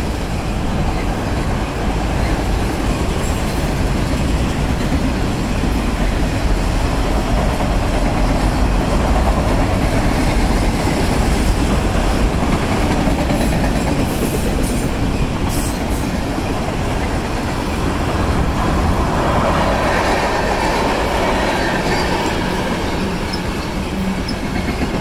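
Freight cars of a Union Pacific manifest train rolling past at close range: a steady, loud rumble and rattle of steel wheels on the rails. Wind buffets the microphone.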